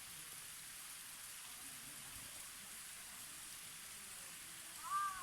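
Steady rushing hiss of a waterfall, with a crow cawing once near the end.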